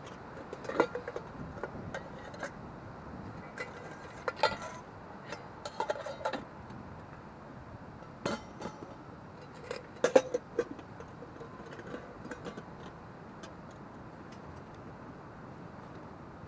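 Wood campfire crackling: irregular sharp pops and snaps over a steady low hiss, the loudest about a second in and again about ten seconds in.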